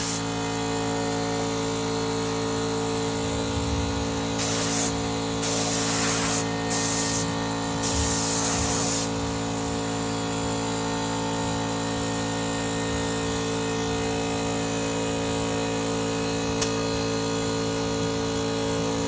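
24-litre Motomil air compressor running with a steady hum, with four short blasts of compressed air hissing out between about four and nine seconds in, and a single click near the end.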